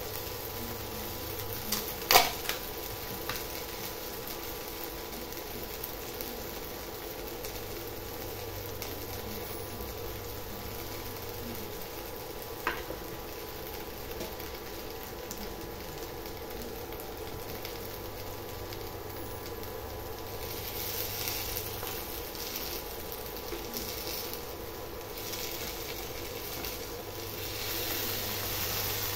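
Okra pieces sizzling in oil in a non-stick kadai on an induction cooktop, over a steady low hum. A sharp click sounds about two seconds in and another about thirteen seconds in. The sizzle grows louder and more uneven in the last several seconds, as poppy-seed paste goes into the pan.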